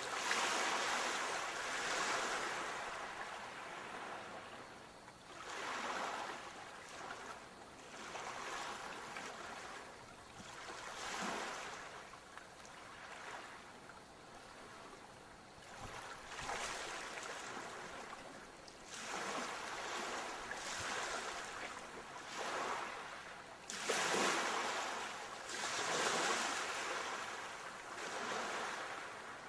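Sea waves breaking as surf, a wash of noise that swells and fades again every few seconds.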